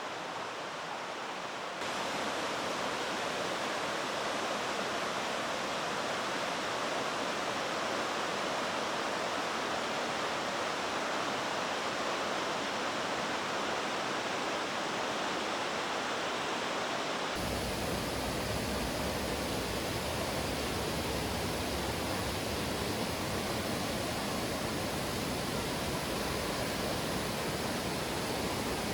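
Rushing water of the Oirase mountain stream, a steady rush over rocks and falls. Its character changes abruptly about two seconds in and again about seventeen seconds in, when it becomes fuller and deeper.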